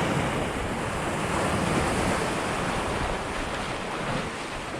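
Water rushing along a sailboat's hull under spinnaker at about 8 knots, a steady wash with wind buffeting the microphone, easing slightly toward the end.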